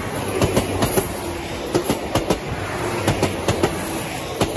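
A train passing close by: steady rumble of the rolling train with the clickety-clack of its wheels striking rail joints, many sharp clicks in quick irregular groups.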